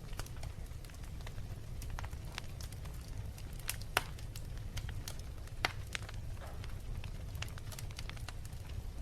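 Wood fire burning in a fireplace: irregular crackles and snaps over a steady low rumble, with two louder pops, one about four seconds in and one a little before six seconds.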